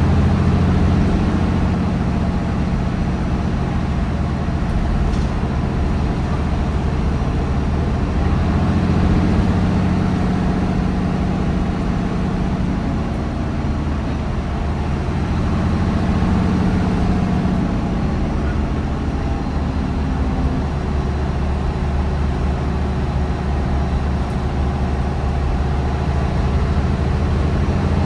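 MAN D1556LOH-10 diesel engine with its ZF Ecolife 6AP1700B automatic gearbox, driving a bus under way. It makes a steady, loud drone whose note rises and falls a few times with speed and gear changes, stepping down about 20 seconds in.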